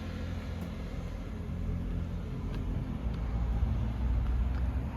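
Low rumble of a departing diesel multiple unit train pulling away from the platform, swelling slightly after about three seconds.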